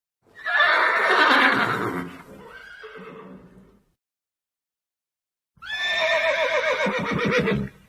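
A horse whinnying twice. The first whinny is long and trails off into a quieter tail. After about two seconds of silence a second whinny follows.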